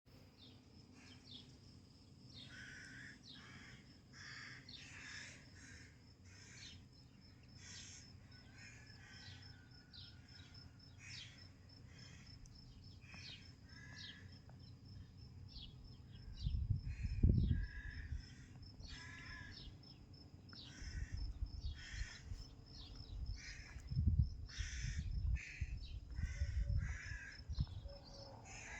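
Wild birds calling with many short, repeated chirps, over a steady fast ticking like an insect. Bursts of low rumble come in during the second half.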